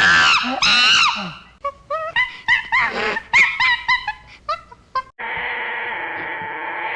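Animal calls: loud, wavering cries at first, then a quick run of short calls. About five seconds in they stop abruptly and a steady, hiss-like background takes over.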